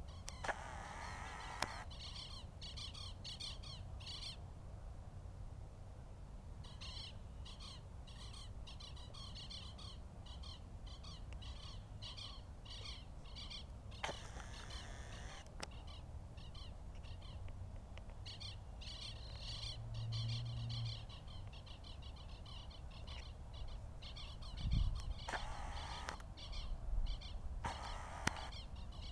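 Birds calling in the dawn half-light: long series of repeated high chirping notes, about two a second, with a few short, harsher and louder calls breaking in.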